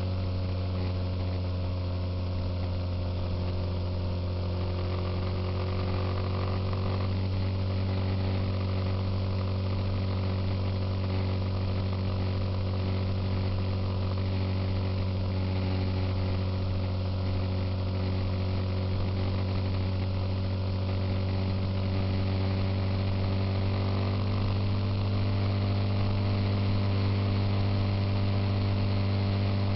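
Suzuki Intruder motorcycle engine running at a steady road speed, its pitch holding nearly level, over a steady wash of wind and road noise.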